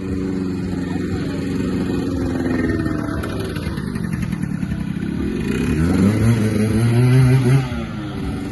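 A motor vehicle's engine running close by. Its pitch sags over the first few seconds, then climbs as it revs, loudest about seven seconds in before dropping away.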